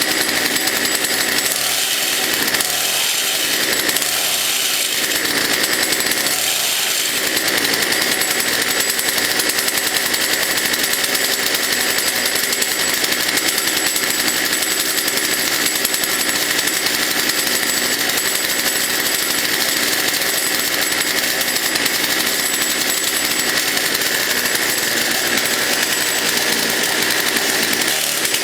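Two-stroke 33cc Poulan chainsaw engine powering a homemade motorized bike, running continuously with a steady buzzing drone that wavers a little in the first several seconds.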